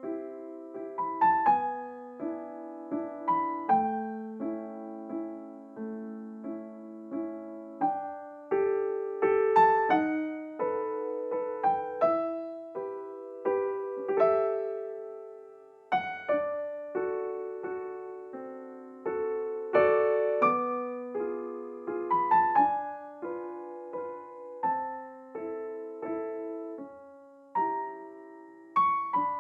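Background piano music: a slow, gentle melody of single struck notes over soft chords.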